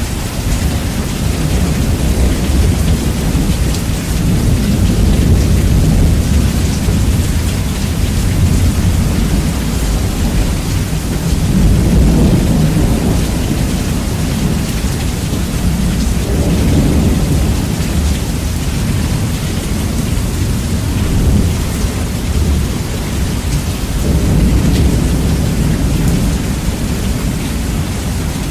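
Heavy rain with thunder, bass-boosted and very loud, so a deep, dense rumble dominates over the hiss of the rain. Rolling thunder swells up several times through the steady downpour.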